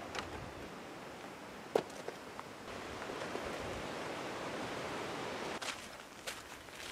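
Strong wind rushing through forest trees. A gust swells in about a third of the way through and eases off near the end, with a few small clicks and knocks over it.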